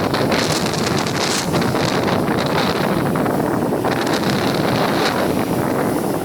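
Strong gusting wind buffeting the microphone as a loud, steady rush.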